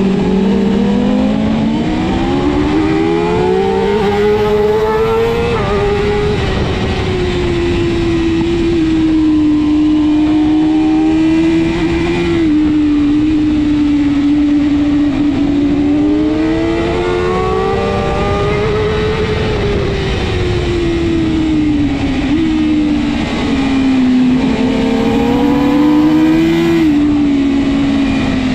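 BMW S1000RR superbike's inline-four engine at racing speed. Its pitch climbs and falls with the throttle through the corners, with a few sudden steps down in pitch at gear changes, over steady wind noise.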